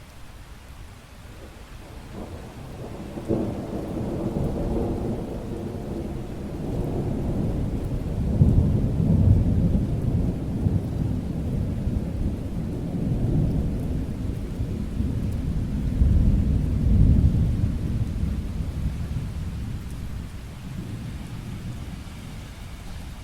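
Rolling thunder over steady rain: a long low rumble that builds from a couple of seconds in, swells twice, and dies away near the end, with the rain's hiss underneath.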